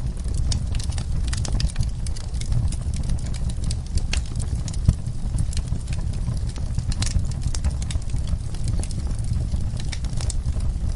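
Fireplace fire crackling: irregular sharp pops and snaps over a steady low rumble, with one louder pop about five seconds in.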